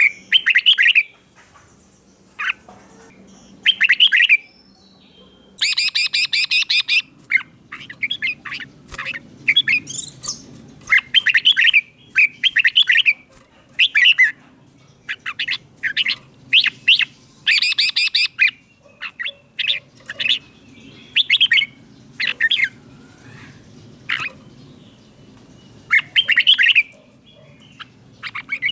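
Red-whiskered bulbul singing: short, loud whistled phrases every second or two, with a few longer, rapid chattering phrases in between.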